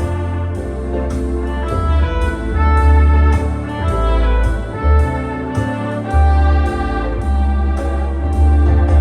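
Lowrey home organ playing a tune with sustained chords, a bass line and a steady rhythm-unit beat about two a second.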